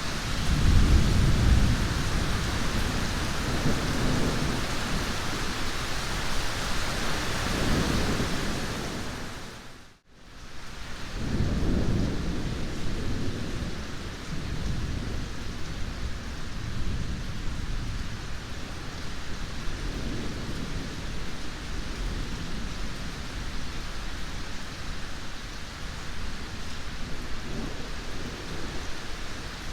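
Steady heavy rain with repeated low, rolling thunder rumbles, loudest in the first couple of seconds. About ten seconds in, the sound dips briefly to near silence and fades back in, after which the rain is softer.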